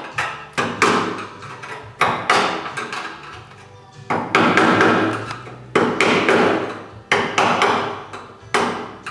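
Hammer blows on a Toyota Land Cruiser's steel fender, about a dozen irregular strikes, each with a brief metallic ring, knocking old Bondo body filler out and working the bent sheet metal straight.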